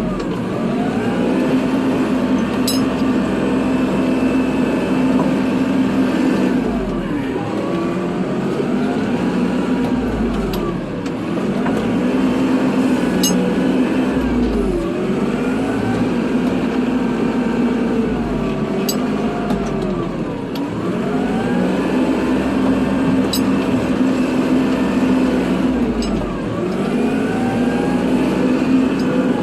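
Kubota tractor's diesel engine running steadily under load while plowing snow. A whine above it sinks and rises again in pitch every few seconds, with a few faint clicks.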